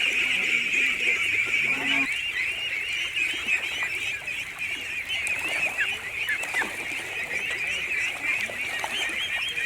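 A flock of domestic fowl calling together: a dense, continuous chorus of short, high peeping calls.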